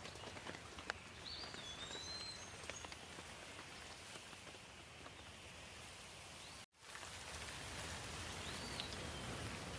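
Steady light rain with scattered drops ticking, a few short chirps sounding over it. The sound cuts out completely for a moment about two-thirds of the way through, then the rain resumes.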